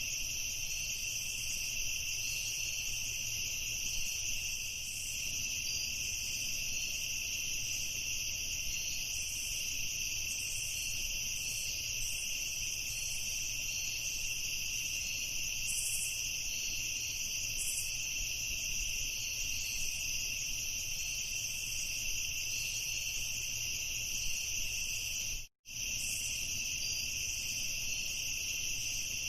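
Steady chorus of crickets at night, high-pitched and unbroken. The sound cuts out completely for a split second near the end.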